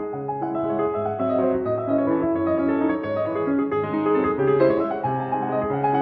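Background piano music: a keyboard piece of flowing notes over a moving bass line.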